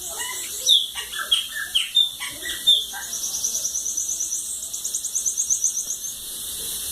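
Bananaquit (sibite) singing: a string of short falling chirps, then a fast, high trill of about six notes a second lasting about three seconds.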